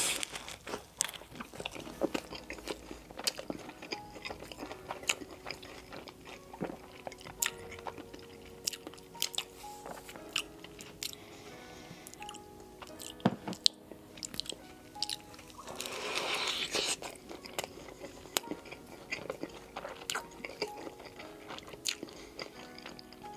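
Close-up mouth sounds of biting, crunching and chewing a toasted-bread turkey club sandwich, with many small crisp clicks, over soft background music. About two-thirds of the way through there is a short hissing squirt from a plastic squeeze bottle of ranch dressing.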